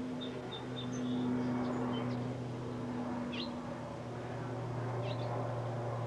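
A bird giving short, high chirps: a quick run of them about a second in, then a few scattered calls. A steady low hum sounds underneath.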